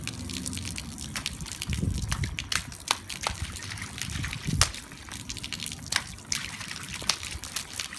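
Rain falling with water trickling, and many scattered sharp drip and splash ticks. There are two low thuds, about two seconds in and again about four and a half seconds in.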